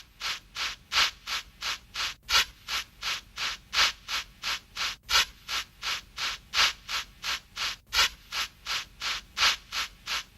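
Steam locomotive chuffing at a steady pace, about three exhaust beats a second, with every fourth beat louder.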